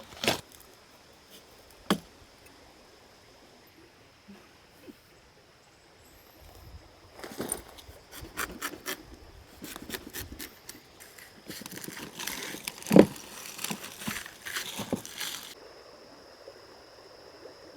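Camp gear being handled by hand: scattered knocks and clinks, then a busy stretch of clattering and rattling with one louder knock partway through. A faint steady high hum runs underneath.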